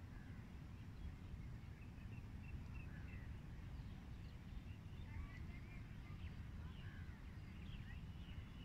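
Birds chirping faintly with short, scattered calls over a low, steady rumble of outdoor background noise.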